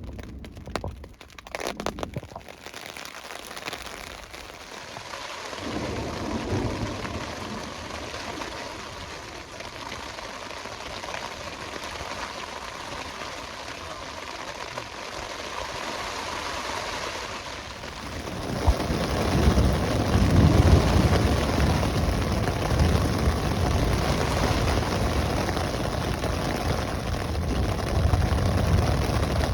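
Rain falling steadily and growing heavier, with a deep rumble of thunder coming in about two-thirds of the way through and carrying on to the end.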